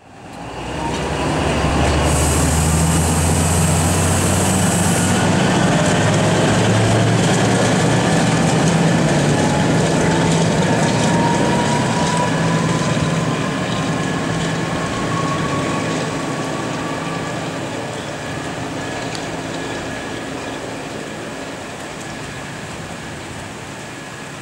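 Train running at a station: a heavy steady rumble with a whine that rises slowly in pitch over about fifteen seconds, and a brief high hiss about two seconds in. The sound eases off gradually in the second half.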